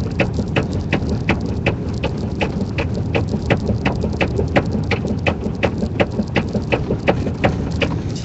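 Low, steady rumble of a vehicle heard from inside the cab, with sharp, evenly spaced ticking at about three clicks a second that stops near the end.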